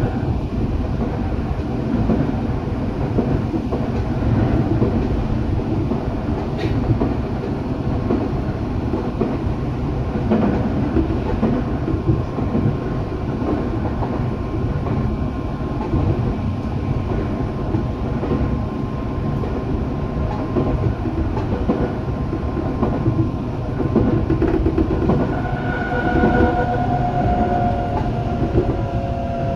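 Eidan (Tokyo Metro) 8000 series electric train running along the track: a steady rumble of wheels on rail with a few light knocks, and a thin whining tone that comes in near the end.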